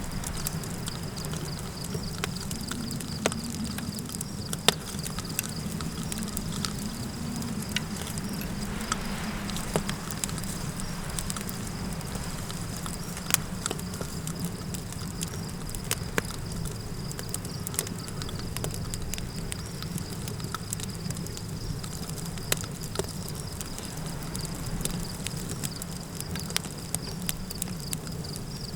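Campfire crackling, with sharp pops scattered throughout, over a steady low wind rumble and the constant high chirring of crickets.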